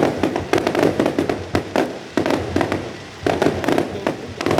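Fireworks going off in a rapid, irregular string of bangs and booms, several a second.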